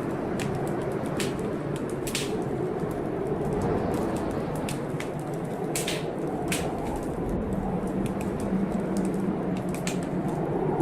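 Wood fire crackling in a fireplace, with irregular sharp pops, over a steady howl of blizzard wind that rises and falls in pitch.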